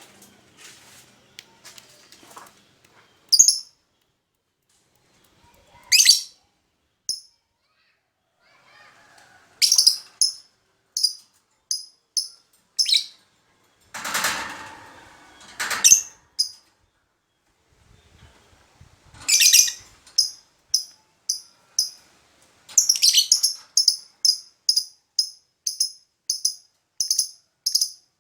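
Lovebird giving short, sharp, high chirps, scattered at first and then in a quick run of about two a second near the end. A brief burst of rustling, like wing flapping, comes about halfway through.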